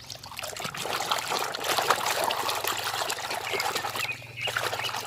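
Water trickling and splashing as a muddy toy car is washed by hand, with small knocks and clicks of the plastic toy being handled.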